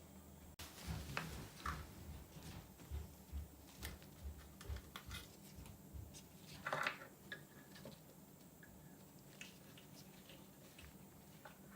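Faint handling noises: scattered light clicks, taps and soft knocks, with a louder rustle about seven seconds in, then mostly quiet near the end.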